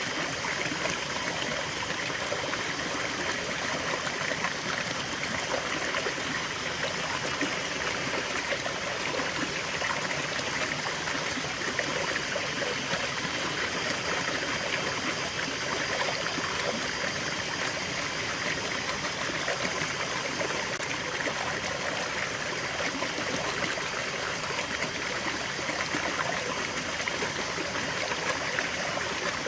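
Small stream of water running and trickling steadily.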